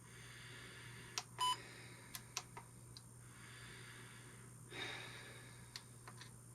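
Trail camera being worked through its menu: a few sharp button clicks and one short electronic beep about a second and a half in, with a soft rustle of handling a little later.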